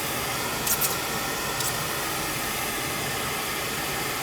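Steady hiss of background noise, with a few brief faint clicks about a second in.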